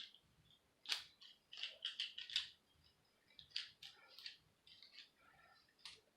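Scattered short, sharp clicks and snips from handling hair tools, with a quick cluster about two seconds in and more around four seconds; no blow dryer is running.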